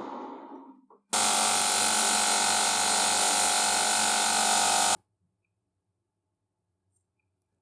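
A small electric power tool's motor running steadily with a buzzing hum, starting abruptly about a second in and cutting off sharply about four seconds later.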